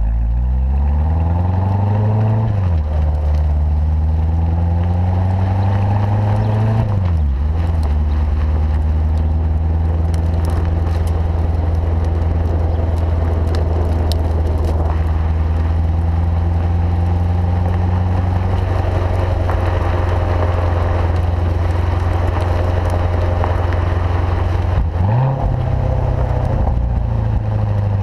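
Chevrolet Corvette C7 Stingray's 6.2-litre V8 through its performance exhaust, pulling up in pitch and dropping sharply at two upshifts of the manual gearbox. It then holds a steady, even note while cruising, with a short dip and pick-up near the end.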